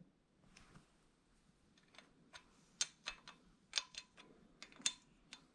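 Faint, irregular metallic clicks and light taps of hand tools being handled on the engine, about a dozen of them, starting roughly two seconds in.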